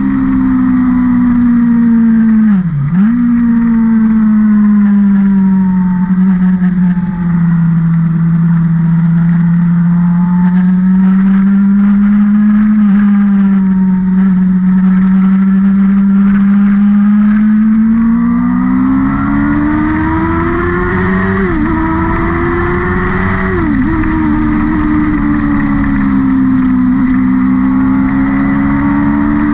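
Single vehicle engine running continuously as it laps a race circuit. Its pitch rises and falls slowly, with a few brief sharp dips: one near the start, one about three seconds in, and two near the end.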